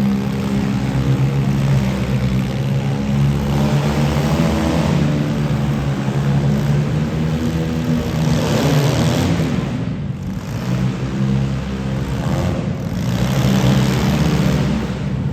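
Demolition derby car engines running hard and revving, their pitch rising and falling.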